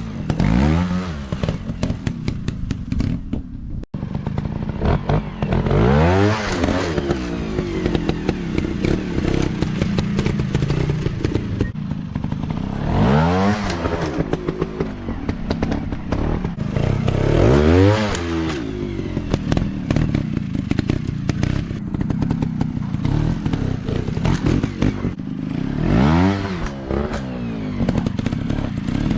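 Dirt bike engines revving up and falling back again and again, with rough clattering and knocks throughout. The sound cuts out briefly about four seconds in.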